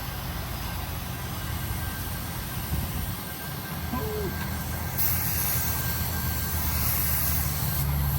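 A steady low motor hum, with a high hiss of rushing air that switches on about five seconds in and cuts off shortly before the end.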